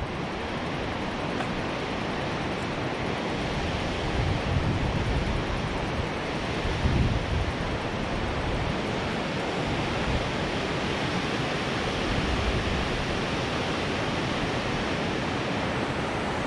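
Steady rushing wind noise on the microphone while riding a recumbent bicycle, with uneven low buffeting underneath.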